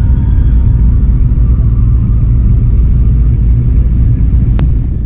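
Turbocharged V8 of a Dodge pickup running steadily at low revs: a loud, even low rumble with no revving. A single sharp click sounds about four and a half seconds in.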